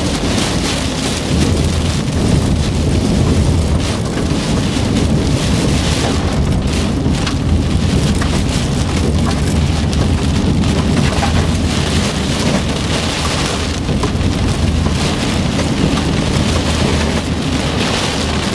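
Heavy wind-driven rain from the storm around a tornado pelting the car's roof and windshield, heard from inside the car as a dense patter of drops. A steady low drone of the moving car runs underneath.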